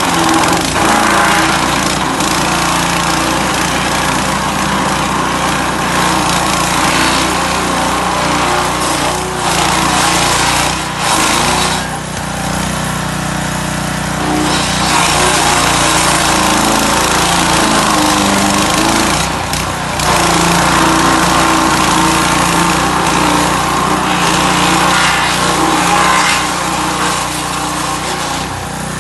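Wood chipper/shredder driven by a 196 cc single-cylinder four-stroke petrol engine, running steadily under a loud, noisy rush of material going through the cutters. The rush swells and eases, dropping briefly twice, about eleven seconds in and again near twenty seconds.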